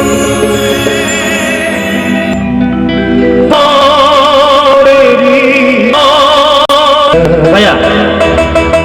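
Live band music: a held chord that sustains for about two seconds and thins out, then a melodic instrumental line with vibrato over sustained notes comes in about three and a half seconds in.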